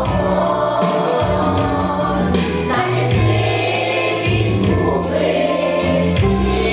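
A group of voices singing a song over instrumental accompaniment with sustained bass notes.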